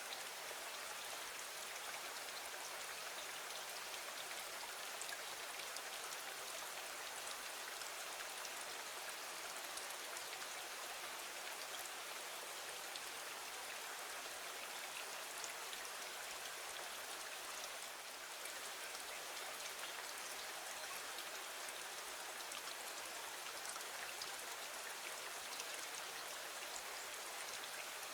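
Steady rain: an even, unbroken hiss of rainfall, dotted with faint small ticks of single drops.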